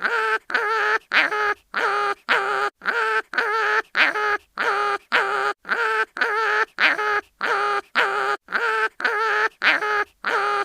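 Cartoon animal crying-in-pain sound effect: a short pitched cry repeated nearly twice a second, each cry alike, as in a loop.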